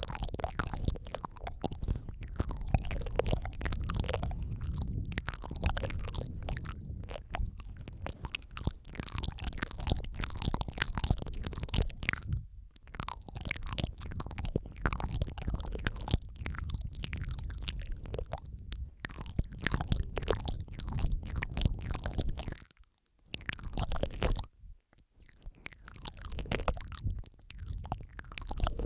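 Layered ASMR mouth sounds close on the microphone: a dense, irregular run of wet clicks and smacks over a low rumble, with a few short breaks.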